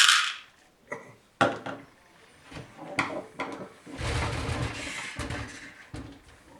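Hands working on a PC case: a short loud rustle, a few sharp clicks and knocks of parts being handled, then a longer stretch of rustling and rubbing about four seconds in.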